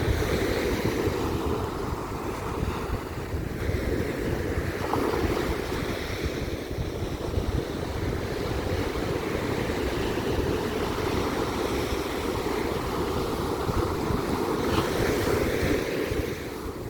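Sea waves breaking and washing up on a beach, a steady surge that swells and eases, with wind rumbling on the microphone.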